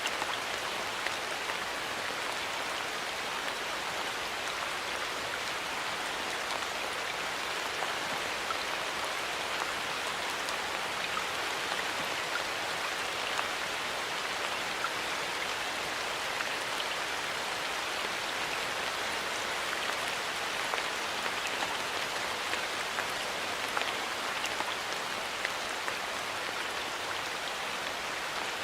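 Steady rain falling in a forest, an even patter with many small drops ticking on leaves and surfaces.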